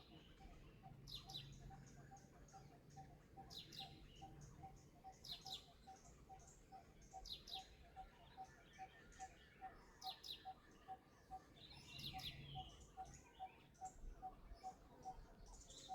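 Faint, high, short chirping calls every second or two, over a faint steady ticking at about three ticks a second.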